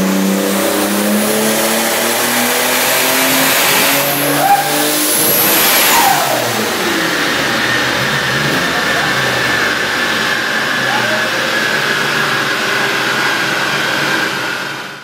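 Toyota Supra's sequential twin-turbo straight-six running hard on a chassis dyno, revs climbing, then the throttle closes about six seconds in and the engine note falls steeply away. A steady whine from the spinning driveline and rollers sinks slowly in pitch as they coast down.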